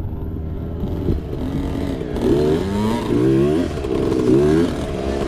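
Mini bike engine revving up and down: fairly steady for about two seconds, then its pitch climbs and drops over and over, about every half to three-quarters of a second, as the throttle is worked on the trail.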